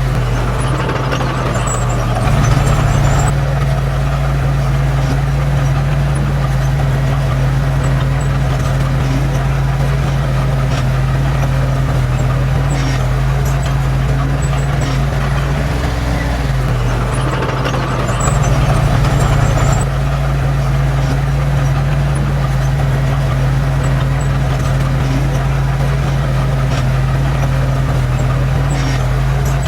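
Diesel engine of heavy earthmoving machinery running steadily. The engine note rises and grows louder briefly twice, about two seconds in and again around eighteen seconds in, as the engine takes load.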